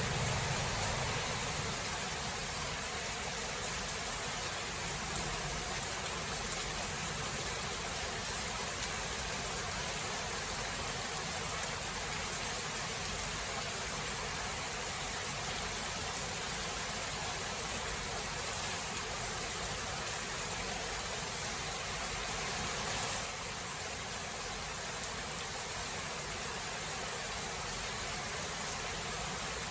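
Steady rain falling in a thunderstorm, an even hiss, with the last of a low thunder rumble dying away in the first second; the rain eases slightly a little over twenty seconds in.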